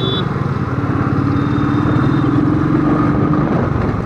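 Royal Enfield Thunderbird's single-cylinder engine running under way, a steady rapid thumping, with a tone rising gently through the middle as it picks up speed. A brief high beep sounds right at the start.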